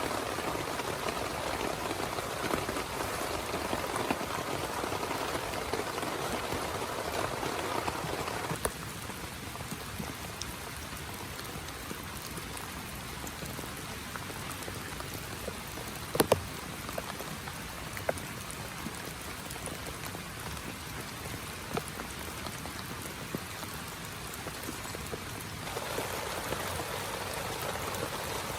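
Heavy rain falling steadily. About a third of the way in the sound changes abruptly to a quieter, thinner hiss, and near the end it returns to the fuller sound. A single sharp tap comes a little past the middle.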